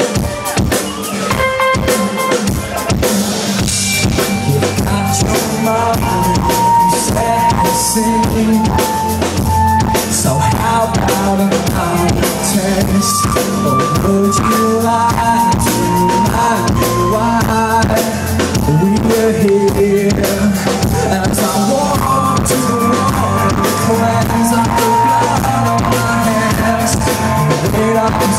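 Rock band playing live: drum kit with bass drum and snare driving a steady beat under guitars and bass, the instrumental introduction of a song before the vocals.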